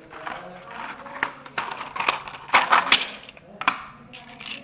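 Crinkling and rustling of a firecracker pack's paper and plastic wrapping being handled and opened, in irregular bursts, busiest in the middle.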